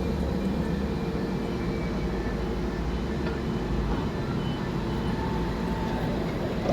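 Train running: a steady low rumble with faint, brief higher tones over it.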